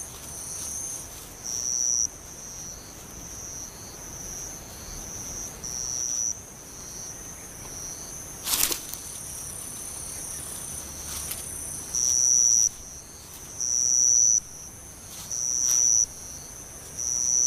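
An insect singing a high, even trill in repeated phrases every second and a half to two seconds, growing louder later on. A brief sharp click sounds about eight and a half seconds in.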